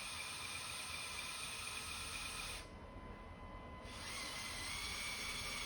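Small electric motors of a LEGO Technic Liebherr R9800 excavator whining as they drive its functions, cutting out for about a second and a half midway and then starting up again.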